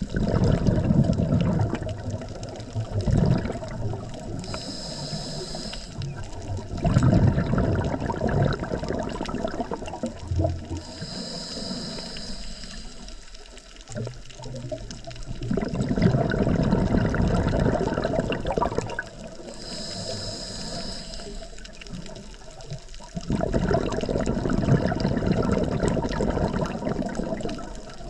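Scuba diver breathing underwater through a regulator in a slow, even cycle: a soft high hiss on each inhale, then a long gurgle of exhaled bubbles. There are four bubble spells and three inhales.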